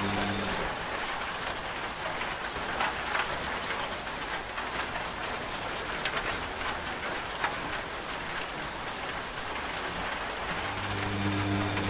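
Steady rain with scattered drops ticking. A washing machine's low motor hum stops about half a second in and starts again near the end, the pauses between the drum's turns.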